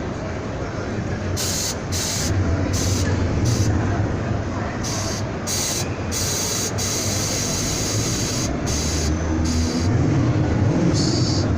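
A vehicle on the move: a steady low engine rumble that swells and eases, under a constant rushing hiss of wind and road noise.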